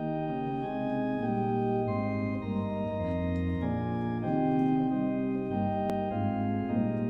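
Organ playing a hymn tune in held chords that change every second or so.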